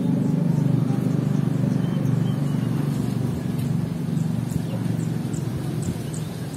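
A steady low rumble dominates, with faint, high, short bird chirps over it that come about twice a second in the second half.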